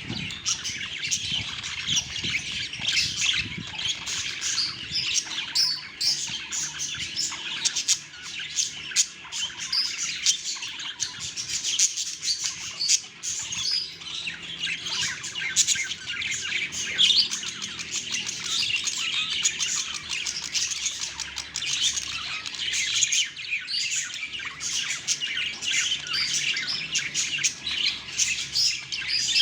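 A group of budgies chirping and chattering, many high calls overlapping without a break.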